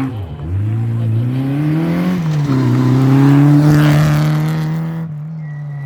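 Rally car engine pulling hard up through the gears, the note climbing and then dropping back twice at the gear changes. It holds a steady loud note as the car passes, then the pitch sinks as it moves away near the end.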